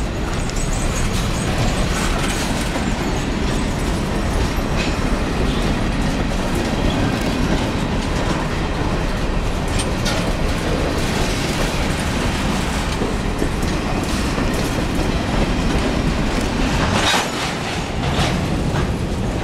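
Covered hopper freight cars rolling past close by: a steady rumble of steel wheels running on the rails, with scattered clicks and a brief harsher burst of noise near the end.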